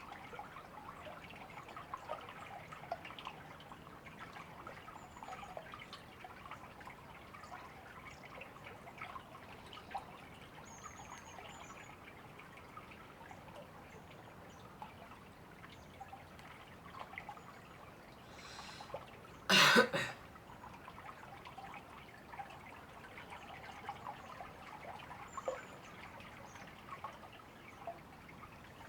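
River water trickling and babbling steadily, with a few faint short bird chirps. About two-thirds of the way through, a brief loud burst of noise stands out above it.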